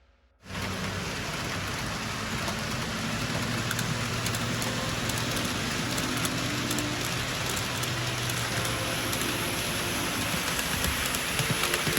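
N gauge model train running on the layout's track: a steady rolling hiss of small wheels on rail with a low motor hum and faint ticks, starting suddenly about half a second in.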